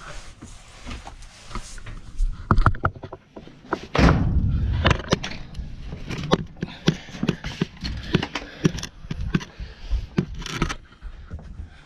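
Irregular knocks, clicks and clunks of things being handled and set down, with a heavier thud about four seconds in.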